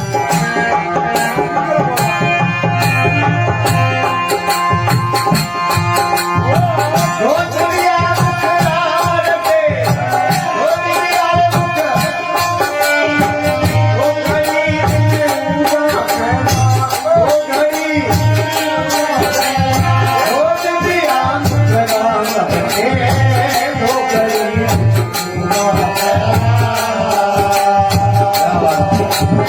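Instrumental passage of a folk devotional bhajan: a wavering melody over a steady hand-drum beat of about one stroke a second, with rattling percussion.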